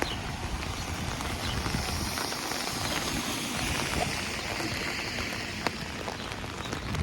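Steady rain drumming on an umbrella overhead, with many separate drops ticking. A broader hiss swells and fades in the middle.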